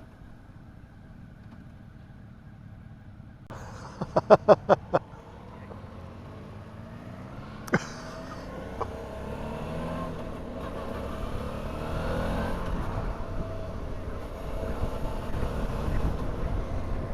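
Motorcycle engine ticking over quietly, then pulling away and accelerating, its pitch rising and the noise growing steadily louder. About four seconds in comes a quick run of six loud, evenly spaced pulses, with a single sharp click a few seconds later.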